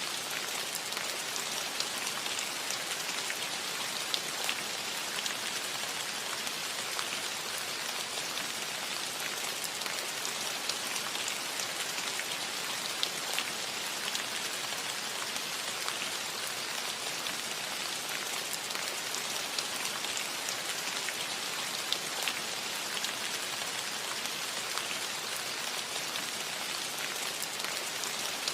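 Steady rain falling on a roof, a dense even hiss with many individual drops pattering and ticking through it.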